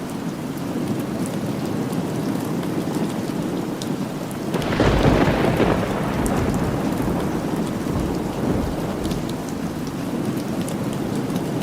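Steady rain falling, with a roll of thunder about five seconds in that swells suddenly and rumbles away over several seconds.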